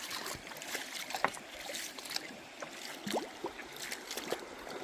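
River water running and gurgling over rocks, with scattered small clicks and brief gurgles.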